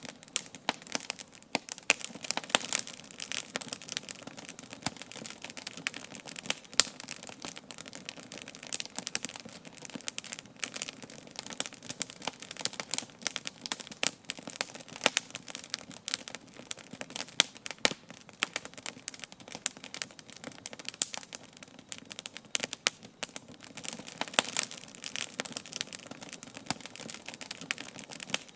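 Wood campfire crackling, with many irregular sharp snaps and pops over a steady hiss of burning.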